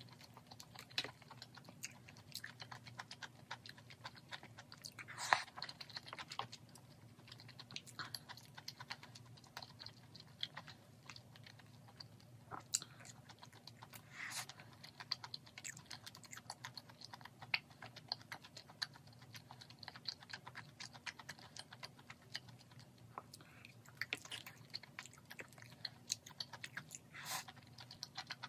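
Close-up chewing of spicy grilled pork intestines (makchang and gopchang), with many short clicks and taps from wooden chopsticks against the dishes, over a faint steady low hum.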